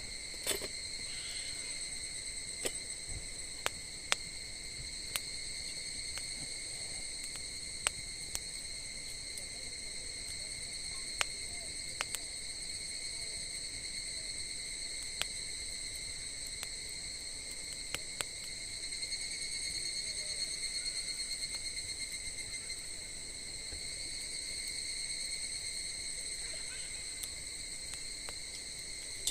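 Insects trilling steadily and high-pitched, swelling a little twice in the second half, over sparse sharp pops and crackles from a wood fire burning in a fire stand.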